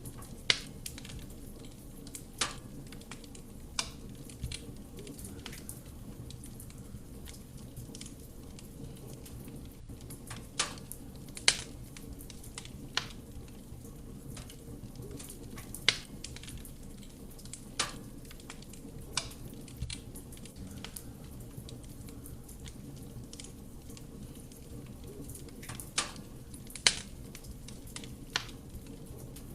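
Wood fire burning in a fireplace: a steady low rumble of flame with irregular sharp crackles and pops from the burning wood, a few of them much louder than the rest.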